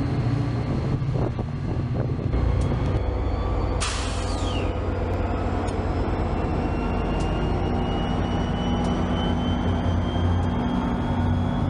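Diesel commuter train running with a steady engine hum; a short burst of air hiss about four seconds in, typical of air brakes, then a thin whine slowly rising in pitch.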